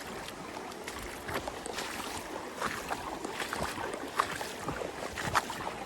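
Footsteps splashing irregularly through shallow creek water over the steady rush of the brook.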